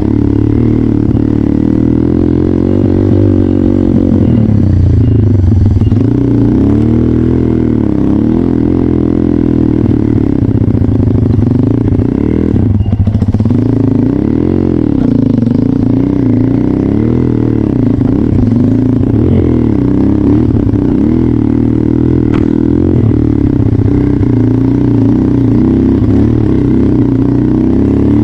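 Trail motorcycle engine running under load, its pitch rising and falling with the throttle and dropping sharply for a moment about thirteen seconds in.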